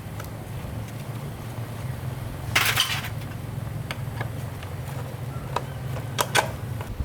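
A small engine running steadily at low speed, with metal clinks over it and a louder clatter about two and a half seconds in. The running stops at the very end.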